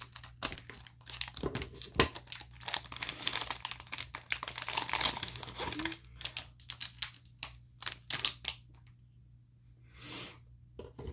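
Plastic packaging crinkling and tearing as mini pop tube fidget toys are unwrapped, dense for about six seconds, then trailing off into scattered light clicks and rustles.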